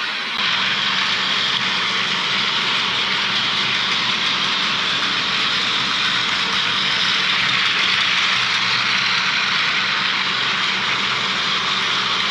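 Battery-powered Plarail toy train running steadily on plastic track: an even, high, buzzing motor whine with the rattle of its wheels. It starts sharply a moment in.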